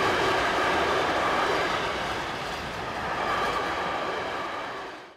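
Container freight train rolling past close by: a steady rumble and rattle of the wagons' wheels on the rails, fading out quickly near the end.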